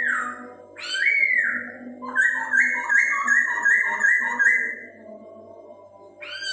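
Poksay hongkong, a laughingthrush, singing loud whistled song. Two slurred notes come first, then a quick run of about six repeated two-part whistles. A steady low hum runs underneath.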